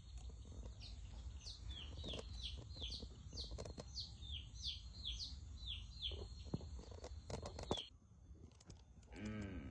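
Young brooding chicks peeping: a run of short chirps falling in pitch, two or three a second, over a low steady hum. The chirping stops abruptly about eight seconds in.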